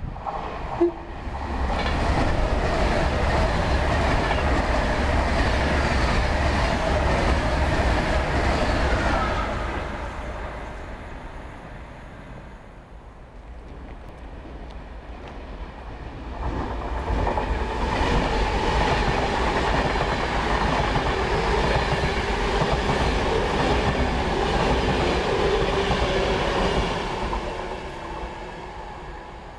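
Two electric trains passing through a station one after the other, the second a Virgin Pendolino. Each pass is a loud rumble of wheels on rail with some clickety-clack that lasts several seconds before fading away.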